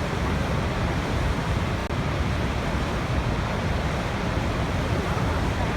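Waterfall rushing: a steady, dense roar of falling water that is heaviest in the low end.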